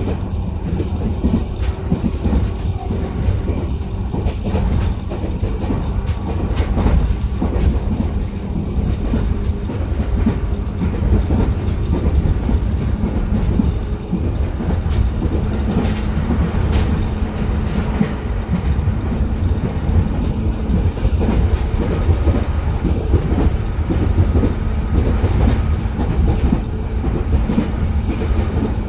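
Running noise inside a JR 205 series electric multiple unit moving between stations: a steady low rumble of wheels on rail with scattered rail-joint clicks and a faint steady hum from the under-floor equipment.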